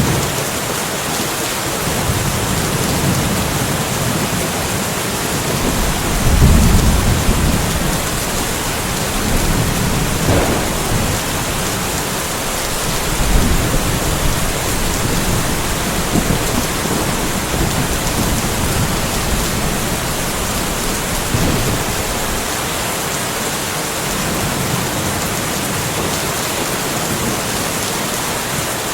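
Steady rainfall with thunder rumbling low in the distance several times. The loudest roll comes about six seconds in, and softer ones follow near ten, thirteen and twenty-one seconds.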